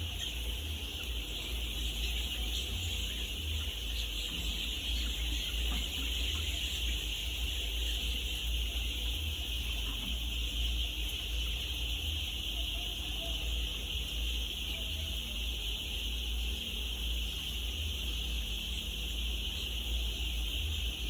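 A large flock of young laying pullets peeping all at once, a dense, unbroken high-pitched chorus, over a steady low rumble.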